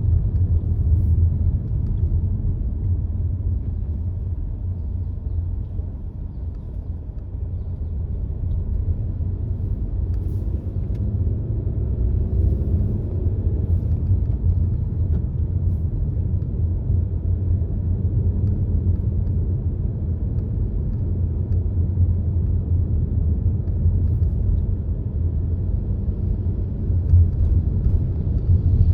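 Car driving with a steady low rumble of engine and road noise.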